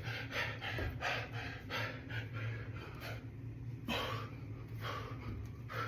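A man breathing hard in quick, noisy breaths, panting from the exertion of a just-finished set of push-ups, with one stronger breath about four seconds in.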